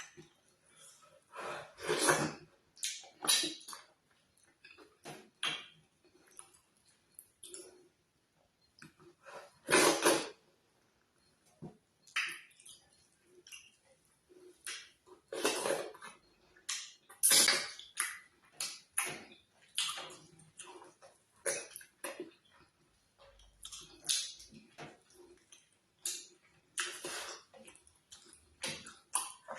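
Close-miked eating of ogbono soup with oatmeal fufu: irregular wet mouth sounds of chewing and swallowing, coming in short bursts with brief pauses between.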